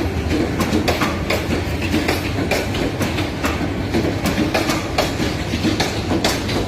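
Passenger express train coaches rolling past, their wheels clattering over the rail joints in a steady run of clicks over a low rumble.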